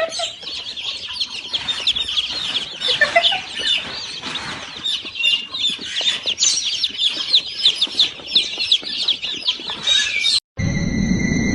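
Many small birds chirping at once, a dense, high-pitched chatter of short falling chirps. About ten and a half seconds in it cuts off sharply, and a steady high horn-like tone over a low rumble begins.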